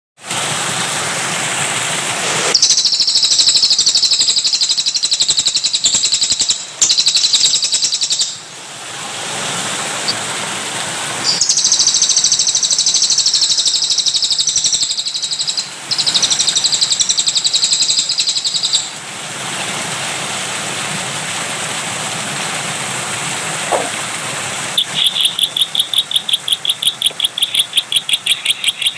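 A songbird singing long, dense, fast phrases over a steady rush of running water. Near the end it switches to a rapid run of repeated chirps, about six a second.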